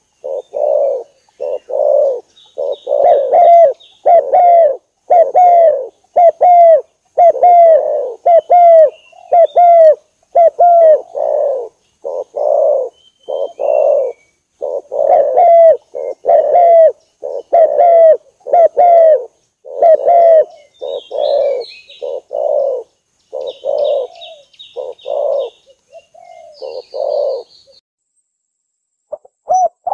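Spotted dove (tekukur) cooing in a quick run of short low coos, about two a second, with a brief pause near the end before it starts again; it is a contest dove's call played as a lure for wild doves. Faint high chirps come and go behind it.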